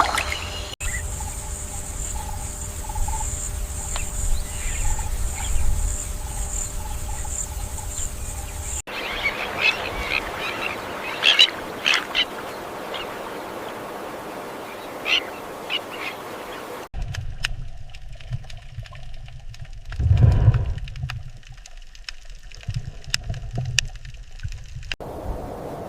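Outdoor wildlife soundscape in several abruptly cut sections: first a steady high buzz over a low rumble, then scattered short bird chirps, then a quieter stretch with a single low thump.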